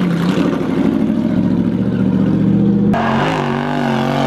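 Lexus LS400's 1UZ V8 engine revving hard, its pitch climbing steadily, then breaking off abruptly about three seconds in to a lower, wavering note.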